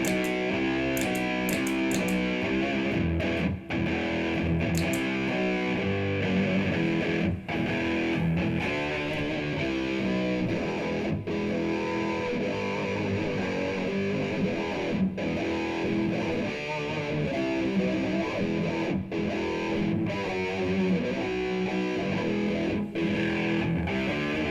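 Electric guitar played through a Boss MS-3 multi-effects unit into a Bluguitar Amp1 amplifier. It plays strummed chords and notes without stopping, with short breaks between phrases about every four seconds.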